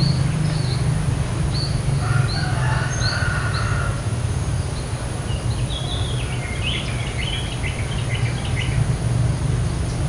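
Trilling shrike-babbler calling: a run of short, quick rising notes repeated about twice a second, then after a pause a falling series of broken notes. A steady low hum and a thin steady high whine run underneath.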